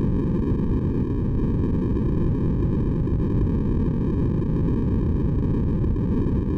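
Steady synthesized white noise for baby sleep: an even, deep rush weighted to the low end, unchanging, with no tones or events.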